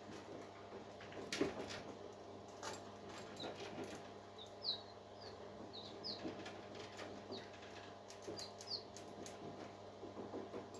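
Parakeets giving short, high falling chirps, with scattered sharp clicks, taps and flutters from the birds moving about, over a steady low hum.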